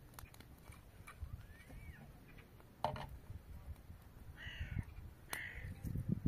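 Birds calling outdoors: a short rising-and-falling call about a second in, then two harsh calls about four and a half and five and a half seconds in. A sharp knock comes near three seconds, over low rustling from pots and greens being handled.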